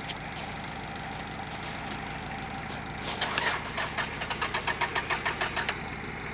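A vehicle engine running steadily. About halfway through comes a run of rapid, loud clattering knocks, roughly seven a second, that stops abruptly near the end.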